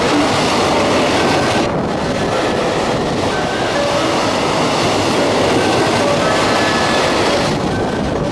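A long freight train's container wagons running through at speed, their wheels rumbling and clattering steadily over the rails, with brief faint squeals now and then.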